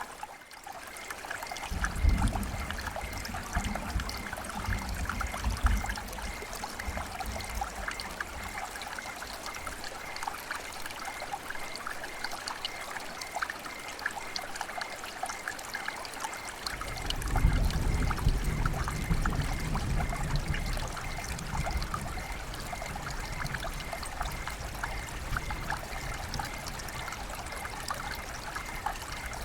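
River water flowing and trickling steadily. A low rumble swells in twice, about two seconds in and again about halfway through, each lasting several seconds.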